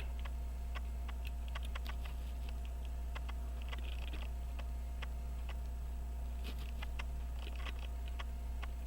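Faint, scattered clicks and taps of small metal tools on a pocket watch movement as the balance is worked into place, over a steady low electrical hum.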